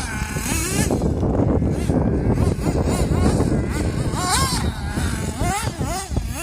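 Small nitro engine of an XRAY RC buggy revving up and falling back several times, with a dense low rumble underneath.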